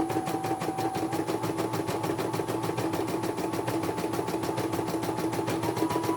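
Computerized embroidery machine stitching: a fast, even rhythm of needle strokes over a steady motor hum, with a higher whine that creeps up in pitch near the end.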